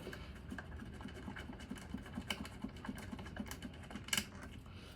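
Hand tools working at the snowmobile fuel pump's Phillips screws: a run of light, fairly regular clicks and taps, with one louder click about four seconds in.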